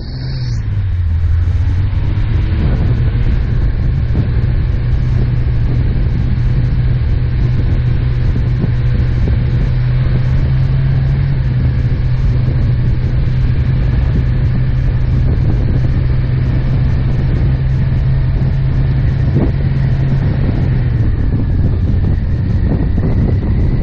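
An off-road 4x4's engine running at a steady pace while driving through packed snow: a loud, even low drone with tyre and road noise. About three seconds before the end the engine note drops as the driver eases off.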